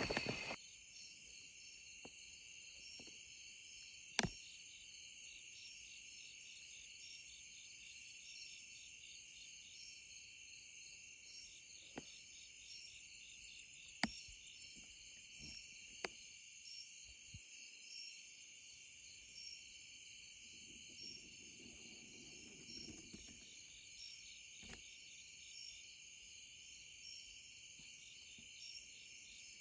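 Faint, steady chorus of crickets and other night insects trilling in a fine repeating pulse. It is broken by a few sharp clicks or snaps, the clearest about four seconds in and again around fourteen seconds.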